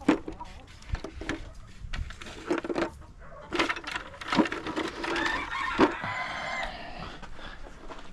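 Knocks and clatter of egg collecting in a chicken coop, with a chicken's single long call about five seconds in.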